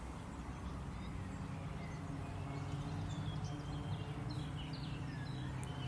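Lakeside ambience: scattered faint bird chirps over a steady low hum.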